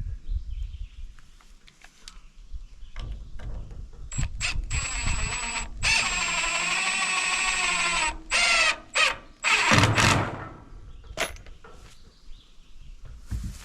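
Cordless drill driving screws into the wooden frame: a couple of short trigger pulls about four seconds in, one long run of about three seconds with the motor's pitch sagging under load, then several short bursts. Scattered knocks of wood being handled before and after.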